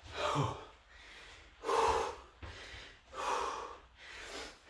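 A man breathing hard, winded from exertion in a workout: about four heavy breaths, roughly one every second and a half.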